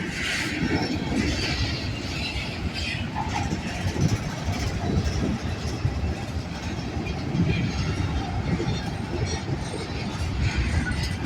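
Freight train cars rolling past, their wheels rumbling and clattering steadily over the rails with scattered knocks.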